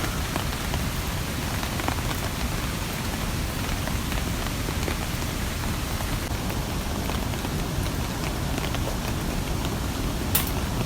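Steady rain, with scattered drops ticking and one sharp click near the end.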